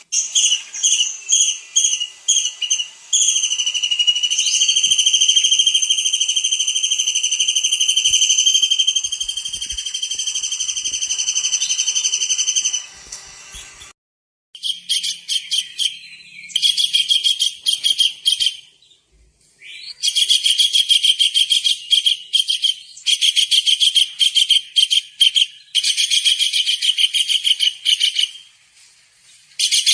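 Tengkek udang (kingfisher) calls: quick high repeated notes, then one long steady high whistle lasting about ten seconds. After a brief pause come fast trilled phrases in repeated bursts of a couple of seconds.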